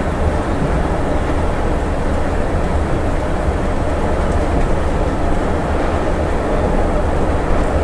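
A Scania bus under way, heard from inside: its engine and road noise run as a steady low rumble.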